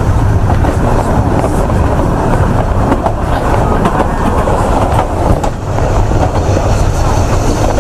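Narrow-gauge railway carriage running along the line, heard from on board: a steady rumble of wheels on rail with a few clicks over rail joints.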